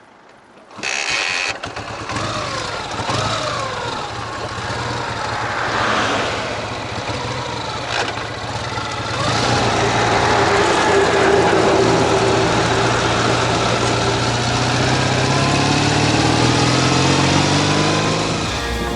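Ural sidecar motorcycle's flat-twin engine starting about a second in and running, with a few revs, then getting louder and rising in pitch near the end as the motorcycle pulls away. The engine has a knock in its left cylinder, which the owner suspects is a bent pushrod or a valve-clearance problem.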